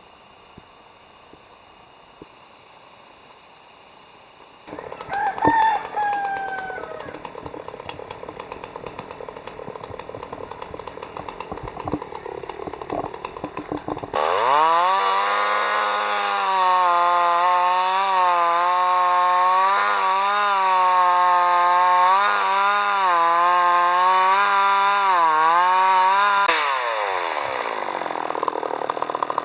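A rooster crows once about five seconds in while a chainsaw idles with a fast ticking. About halfway through, the chainsaw is throttled up to full speed and runs for about twelve seconds, its pitch wavering, then drops back to idle near the end.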